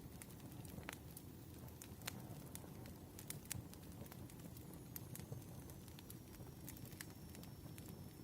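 Wood fire burning, crackling with irregular small pops and snaps over a low rumble of flame.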